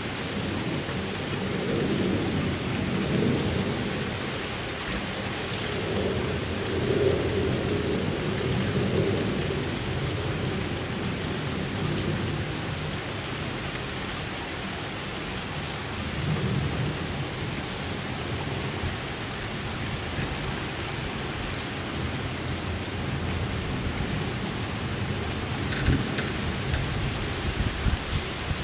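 Rain falling steadily, with low rumbling swells a few seconds in, again around the middle, and a few sharp ticks near the end.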